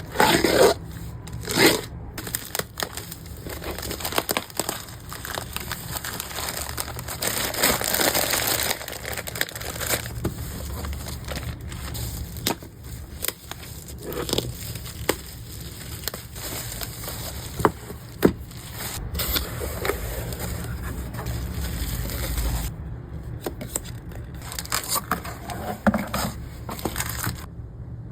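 Packing materials being unboxed and handled: irregular crinkling, crackling and tearing, with scattered sharp clicks.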